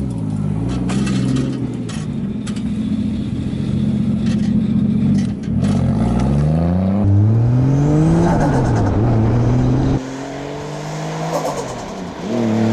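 Drift car's engine accelerating hard, its pitch climbing steeply about six seconds in, easing back, then dropping suddenly at ten seconds as the throttle is lifted or a gear changes, and climbing again near the end. Light clattering is heard in the first few seconds.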